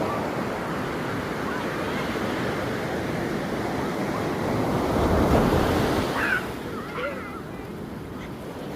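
Ocean surf washing onto a beach, a wave building to its loudest about five seconds in and then easing off.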